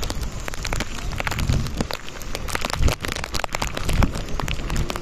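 Cyclone rain falling, with a dense patter of close drops ticking. Wind buffets the microphone in low rumbling gusts, strongest about one and a half, three and four seconds in.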